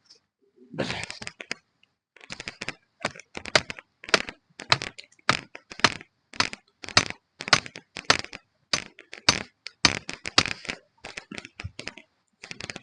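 Close, crunchy chewing: a steady run of crisp crunches about two a second, with a denser burst of crunching about a second in.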